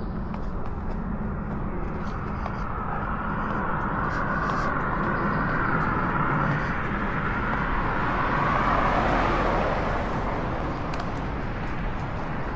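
A car driving past, its tyre and engine noise swelling over several seconds, loudest about nine seconds in, then fading.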